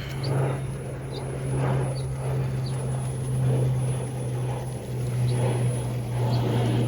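Small electric motor of a radio-controlled car running with a steady drone.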